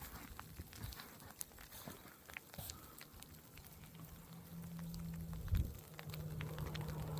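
Scattered light ticks and crunches, then, from about three seconds in, a vehicle's engine hum growing steadily louder as it approaches, with a single thump about halfway through.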